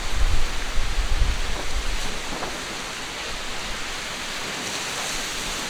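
Strong mistral wind buffeting the microphone in heavy rumbling gusts over the first two seconds, then settling into a steady rushing hiss of wind and rough sea.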